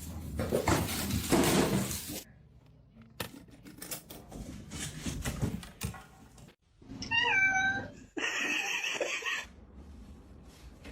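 Domestic cat meowing: one wavering call about seven seconds in. A loud burst of noise at the start and scattered knocks and rustles surround it.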